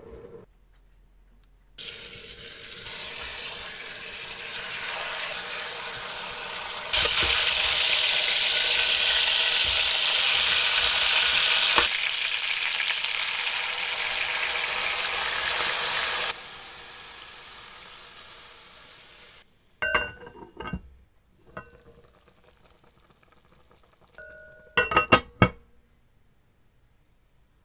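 Rabbit pieces sizzling in a hot oval aluminium roasting pan. The sizzle builds, stays loud for several seconds, then dies away. A few short ringing metallic clinks follow as the pan's lid is handled.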